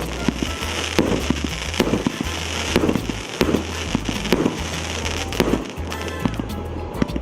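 A 36-shot 1.25-inch fireworks cake firing, with sharp shots about once a second and a dense crackle from the crackling stars.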